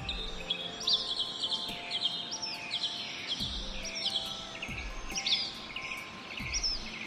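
Birds chirping: many short, quick calls repeating over and over, over soft background music of held notes.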